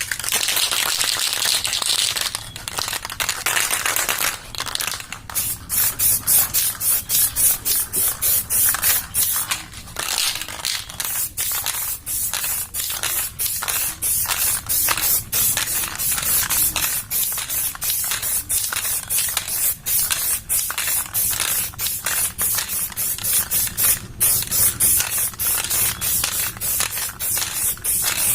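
Aerosol spray-paint can hissing: one long spray, then many short spray bursts, about two or three a second.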